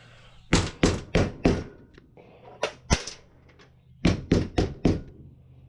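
Hammer blows on a used spin-on oil filter's steel canister, struck to bust its side open: four quick hits, then two, then four more, each a sharp metallic thunk.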